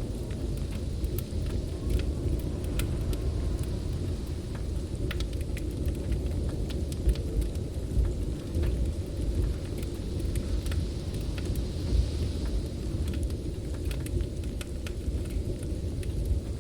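Blizzard wind making a steady low rumble, with scattered sharp crackles and pops from a wood fire burning in a fireplace.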